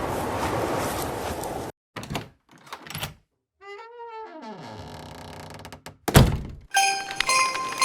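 An edited run of sound effects: a steady rushing noise that cuts off suddenly, a few knocks, a pitched tone sliding downward, and one loud heavy thunk. Chiming music with jingle bells starts near the end.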